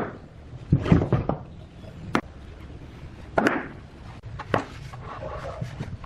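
A handful of irregular wooden knocks and taps, with a sharp click about two seconds in, as pieces of wood are handled and struck in woodworking.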